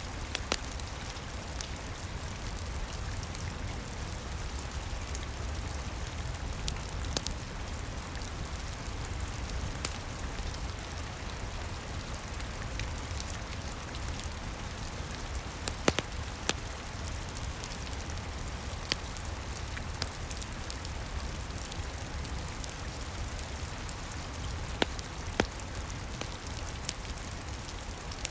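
Steady rain with a low rumble, mixed with the scattered crackles and sharp pops of a wood fire; the loudest pops come about halfway through and near the end.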